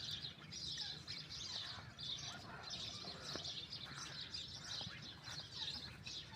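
Many small birds chirping and twittering at once, a continuous faint chorus of high overlapping calls.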